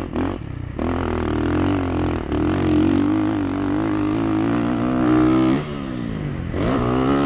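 Dirt bike engine revving under throttle, its pitch climbing for several seconds, then dropping sharply about five and a half seconds in as the throttle is closed, and climbing again near the end.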